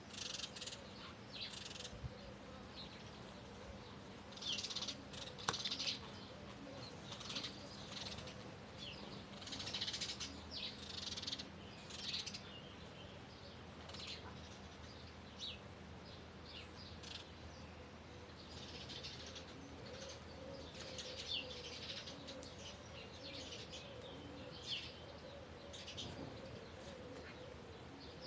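Songbirds singing and chirping in short phrases and bursts, several birds overlapping, with a faint steady hum beneath.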